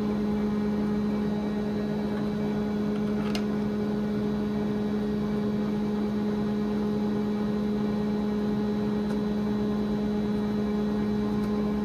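Air compressor running steadily, a constant hum with a low tone. A light click sounds about three seconds in.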